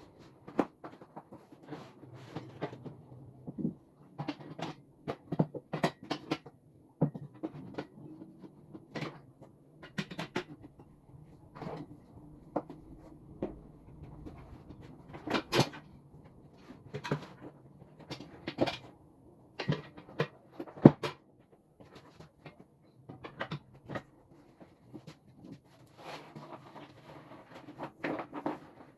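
Irregular knocks, clicks and clatter of table parts being handled and fitted together during assembly, with one sharper knock about two-thirds of the way through, over a faint low hum.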